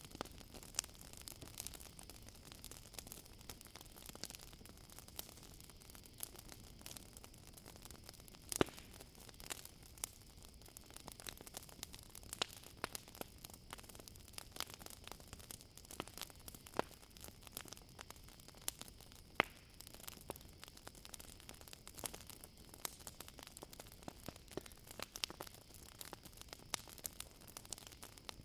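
Campfire crackling: irregular sharp pops and snaps over a low hiss of burning wood, the strongest pops about 8.5 s and 19 s in. A steady high chirring of crickets runs underneath.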